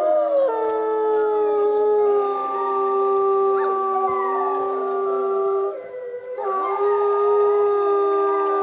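A pack of wolves howling in chorus: several long, held howls at different pitches overlap, with a brief break about six seconds in before the howls start again.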